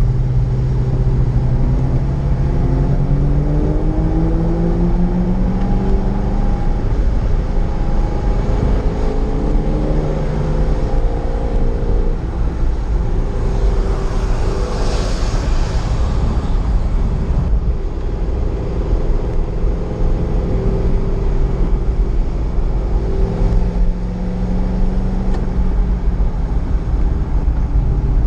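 Corvette Z06's V8 engine at racing speed, heard from the driver's helmet inside the car, its pitch climbing under acceleration and dropping on lifts and downshifts several times. A brief swell of hiss rises and fades about halfway through.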